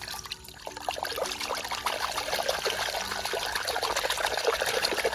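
Water pouring and trickling over a muddy toy duck as it is rinsed clean, a steady run of small splashes that builds up within the first second.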